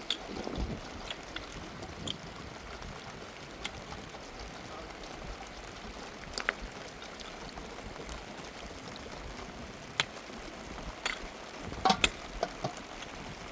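Steady rain hissing, with scattered sharp clicks and taps over it and a short cluster of them near the end.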